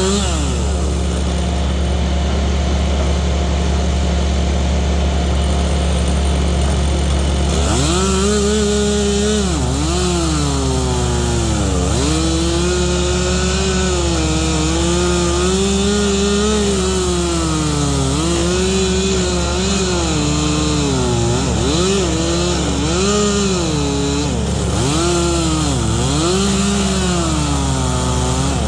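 Two-stroke chainsaw cutting ironwood. The engine runs fairly evenly for the first several seconds, then from about eight seconds in its pitch keeps rising and dipping as the chain bites into the hard wood and the saw is revved back up.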